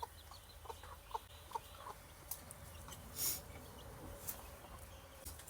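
Gamefowl chickens clucking in a few short, quiet calls, with a few brief scuffing noises, the loudest about three seconds in.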